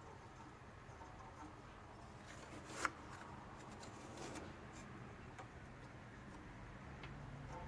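Faint handling of a small engine's throttle linkage and springs: light scattered ticks and rubbing of small metal parts, with one sharp click a little under three seconds in.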